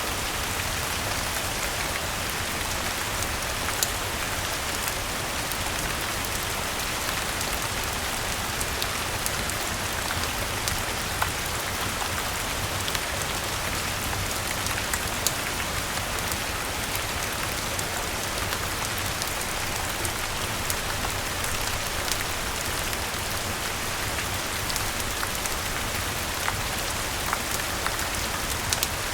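Steady rain falling, an even hiss with scattered sharp little ticks throughout.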